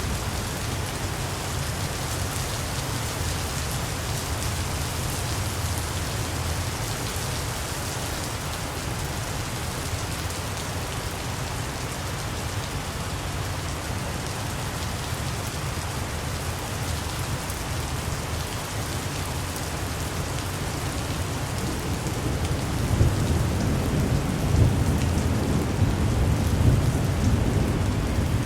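Steady rain falling, an even hiss, with a low rolling rumble of thunder that swells and grows louder in the last quarter.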